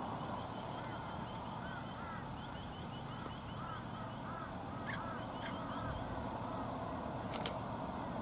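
Birds calling: many short chirps in quick succession, with a couple of sharper calls about five seconds in, over a steady low background noise.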